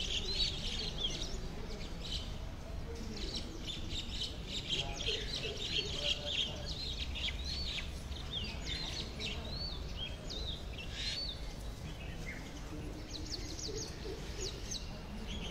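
Small birds chirping: many quick, high calls that rise and hook at the top, dense through the first two-thirds, sparser for a moment, then a short cluster near the end, over a steady low background hum.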